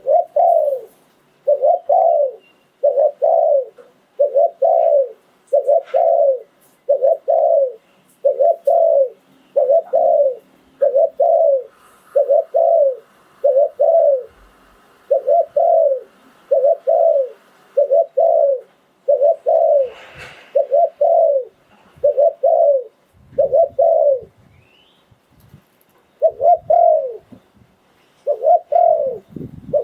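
A spotted dove cooing in a long, regular series of short notes, a little more than one a second, broken by a pause of about two seconds near the end before it starts again.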